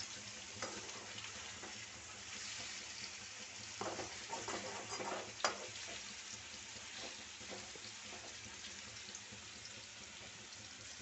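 Chicken pieces sizzling in oil in a steel kadai, stirred with a perforated metal spatula that scrapes and clinks against the pan several times, the sharpest clink about five and a half seconds in.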